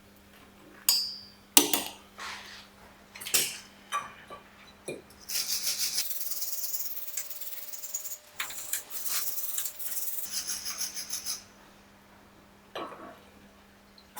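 Sharp clicks and knocks of metal tools and parts being handled, then about six seconds of fast, scratchy rattling and scraping that stops about eleven seconds in.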